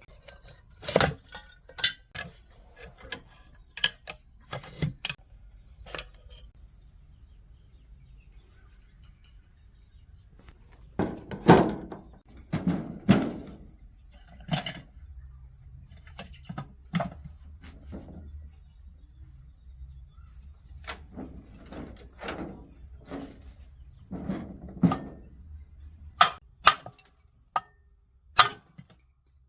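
Steady high chirring of crickets throughout, under irregular sharp knocks and clinks, some of them heavier thuds, with a quicker run of clicks near the end.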